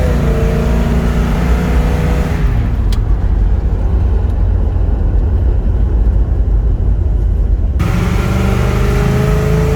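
1969 Chevelle SS's 396 cubic-inch big-block V8 pulling under acceleration, its pitch rising for the first couple of seconds. Then a few seconds of a duller, lower rumble, before the engine note comes back and rises again near the end.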